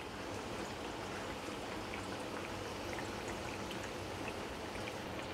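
Two wheat-flour and semolina malpua sizzling steadily in shallow hot oil in a flat pan over a low flame, with faint scattered pops; they are slowly frying through.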